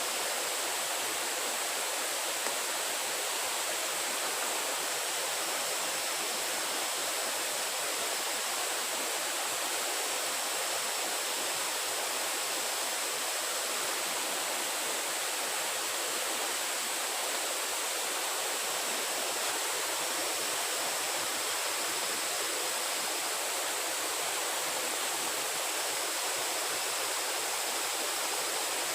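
Steady rushing noise of running water, even and unbroken, with a thin steady high-pitched tone above it.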